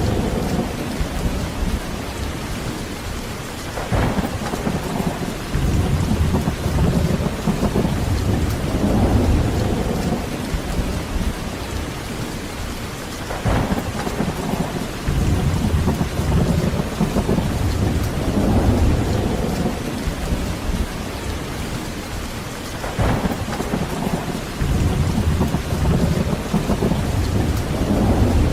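Heavy, steady rain with thunder rumbling in repeated swells that build and fade. Three sharp cracks of thunder come about nine seconds apart.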